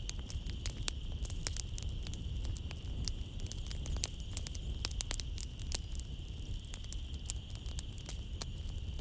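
Wood fire in a fireplace crackling, with many sharp pops at irregular intervals over a low rumble. A steady high-pitched trill of night insects runs underneath.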